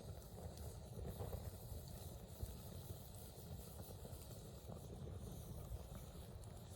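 Wood campfire burning, with a few faint crackles and pops over a low steady rumble.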